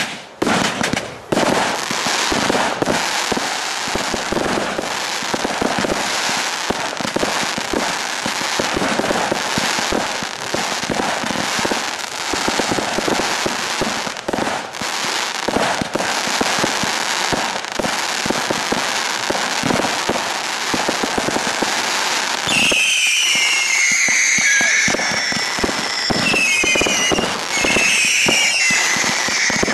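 Fireworks display: a dense, rapid run of crackling reports and bangs throughout. About three quarters of the way in, several shrill whistles join in, each gliding down in pitch over the crackle.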